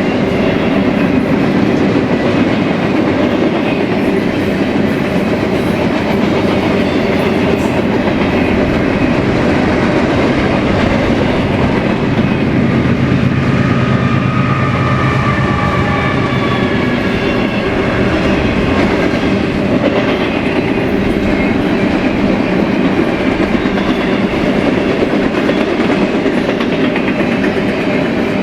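Freight train cars rolling steadily past: a continuous rumble of steel wheels on rail with a clickety-clack, and a faint high whine about halfway through.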